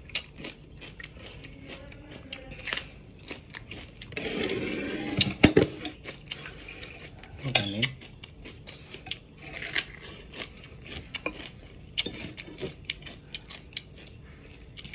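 Close-up crunching and wet chewing of raw green bell pepper, with sharp snaps and clicks as it is bitten and torn apart by hand; loudest about four to six seconds in.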